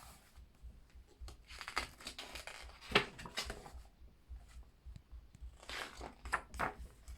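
Pages of a pattern book being turned by hand, the paper swishing and rustling in a few separate page turns with quieter handling between.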